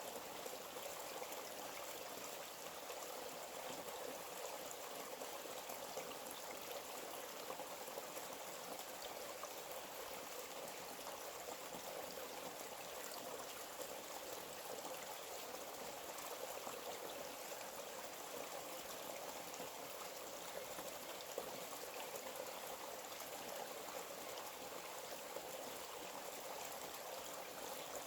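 Forest stream flowing steadily: an even, unbroken sound of running water.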